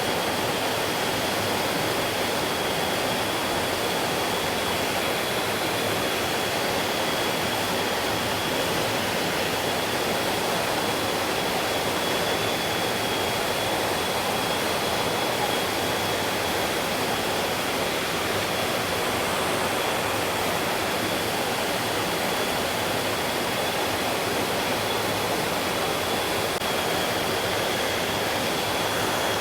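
Mountain stream flowing over rocks, a steady rushing of water, with a faint steady high tone above it.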